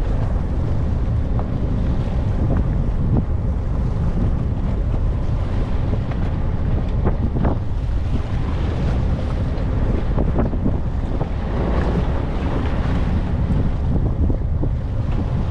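Wind buffeting the microphone over the steady rush of a fishing boat running at sea.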